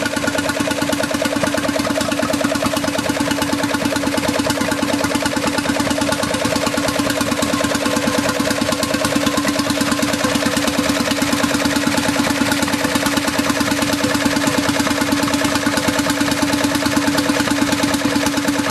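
Stationary engine running steadily with an even, rapid beat.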